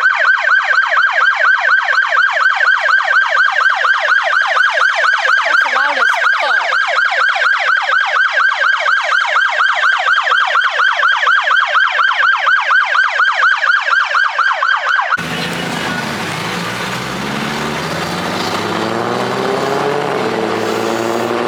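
Police car siren sounding a fast warble, its pitch sweeping up and down several times a second; it cuts off abruptly about fifteen seconds in. A car engine follows, running and rising in pitch as it speeds up near the end.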